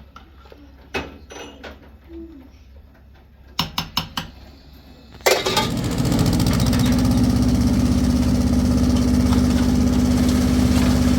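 A quick run of clicks, then an engine starts abruptly about five seconds in and settles into a steady run.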